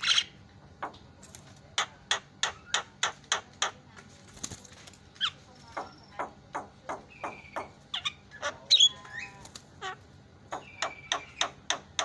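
Javan myna (jalak kebo) calling: a fast run of short, sharp notes, several a second, mixed with brief whistles and a loud harsh call about nine seconds in.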